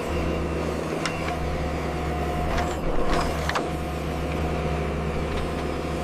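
Radio-controlled construction model's motor running steadily with a low hum, with a few light clicks about one, two and a half, three and three and a half seconds in.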